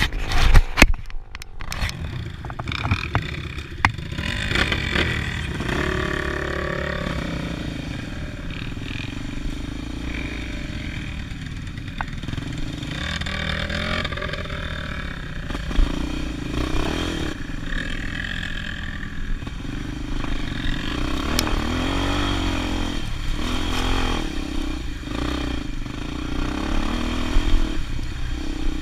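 Motorcycle engine running under way, its note rising and falling as the throttle changes, with a few sharp knocks in the first couple of seconds.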